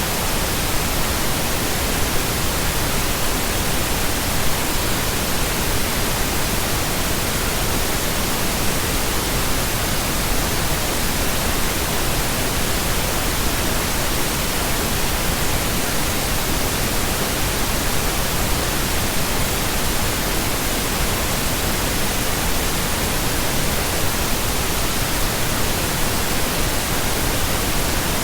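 Steady pink noise: an even, unchanging hiss spread across the whole range, without tones, beats or breaks.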